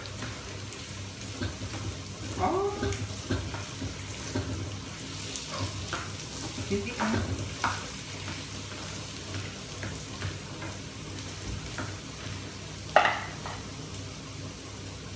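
Menudo sizzling in a pan while it is stirred, with the spoon clicking and scraping against the pan. There is one sharper clack near the end.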